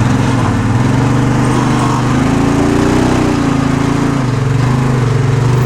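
Arctic Cat UTV engine running while crawling over rocks, revving up about halfway through and then settling back.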